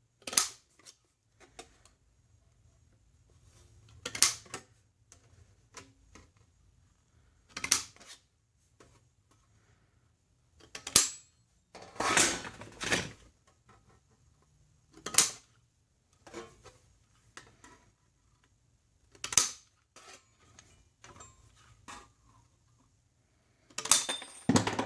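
Tin snips cutting tabs off galvanized sheet metal: a sharp metallic snap every few seconds, about eight in all, with a longer clatter of sheet metal being handled near the middle.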